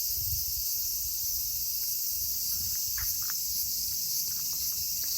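Chorus of insects singing: a steady, continuous high-pitched shrilling, over a faint low rumble.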